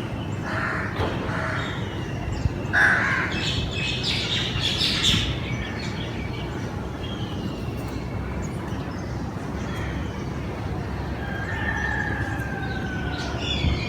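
Crows cawing, several harsh calls in the first five seconds, then thin falling whistled bird calls near the end, over a steady low background rumble.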